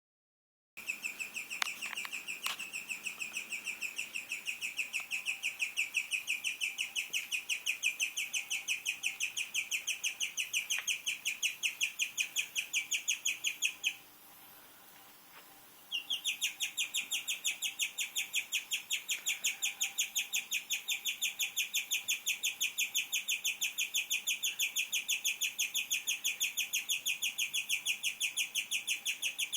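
Guinea pig chirping: a long run of rapid, evenly repeated high-pitched chirps, several a second, much like a bird, stopping for about two seconds halfway through and then starting again.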